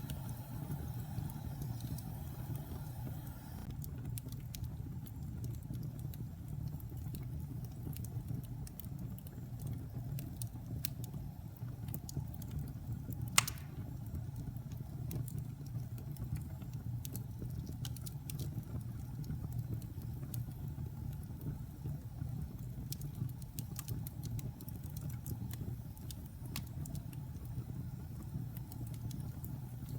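Fire burning in a fireplace, crackling with scattered small pops over a steady low rumble, and one sharp loud pop about halfway through.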